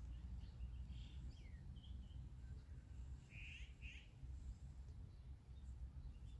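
Faint bird chirps, a few short calls and quick pitch glides, the loudest pair about three and a half seconds in, over a steady low outdoor rumble.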